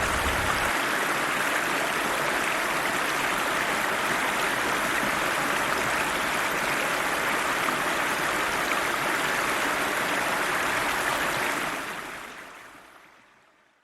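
A river's water rushing steadily, with a low rumble underneath that stops within the first second. The rushing fades out smoothly over the last two seconds.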